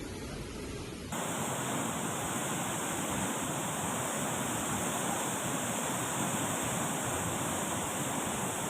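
Steady rush of water. About a second in it changes suddenly to a louder, brighter rush that then holds steady.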